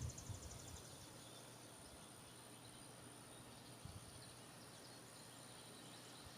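Near silence: faint outdoor ambience with a steady hiss. A rapid high pulsing trill cuts off under a second in, and faint high chirps come later.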